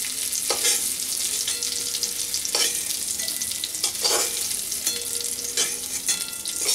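Potato pieces sizzling in hot oil in a stainless-steel kadai while a metal spatula scoops them out, scraping against the pan about four times over the steady sizzle.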